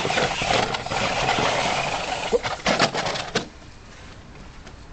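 Electric motor and gears of an RC rock crawler running with clatter and knocks, cutting out suddenly about three and a half seconds in.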